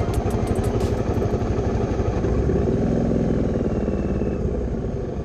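Motorcycle engine running with a steady pulsing exhaust note, starting to fade away near the end.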